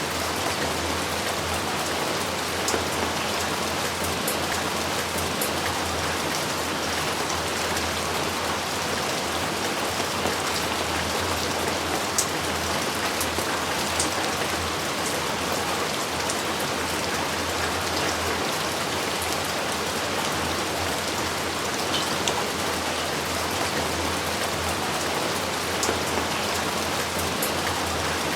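Steady heavy rain falling, an even hiss with occasional sharper drop ticks.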